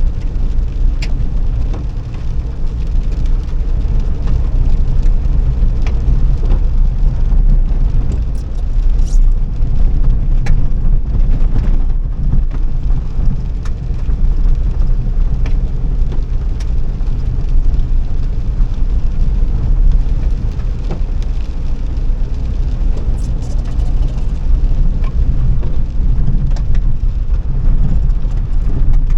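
A car being driven: a loud, steady low rumble of engine and road noise, with a few faint ticks scattered through it.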